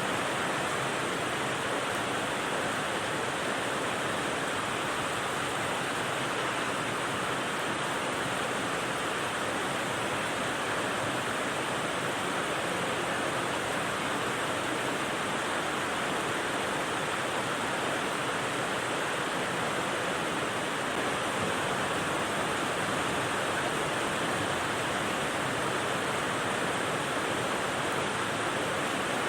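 Rain white noise: a steady, even rushing hiss that does not change, with no separate drops or events standing out.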